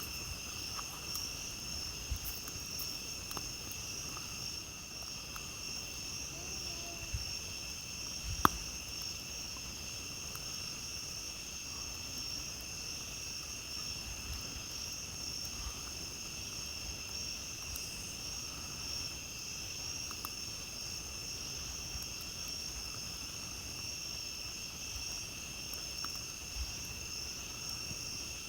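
A steady chorus of night insects trilling, with a campfire crackling now and then and one sharp pop about eight seconds in.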